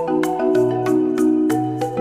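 Background music led by a bright mallet-percussion melody, like a marimba, over sustained chords, with notes struck at a steady pulse of about three a second.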